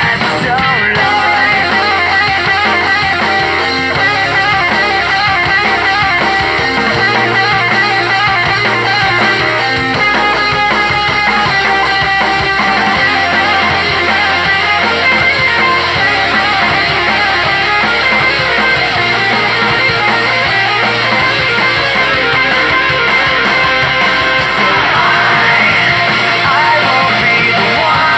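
Loud guitar-driven rock music playing, with a bass line that shifts to a new note about every three seconds.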